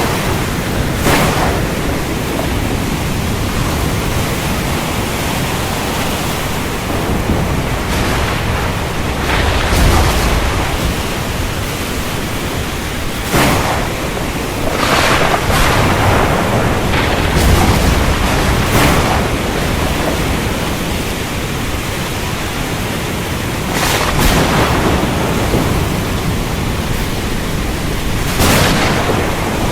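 Thunderstorm: a steady, dense rushing hiss, with low rumbles of thunder about ten and about eighteen seconds in and short sharp cracks every few seconds.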